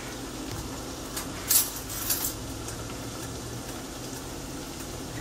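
Ground chuck, Italian sausage and onions frying in a pan, a steady sizzle, with a few brief clicks and knocks of handling between one and two seconds in.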